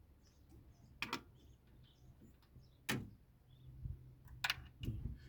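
A few short, sharp knocks or clacks, the loudest about three seconds in, over a low steady hum.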